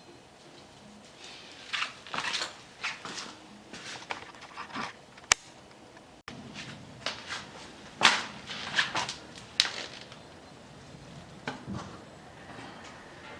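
Small metal parts and hand tools clinking and clattering on a workbench during a brake caliper overhaul, in irregular knocks and clicks, with a sharp single click about five seconds in and the busiest clatter a little past the middle.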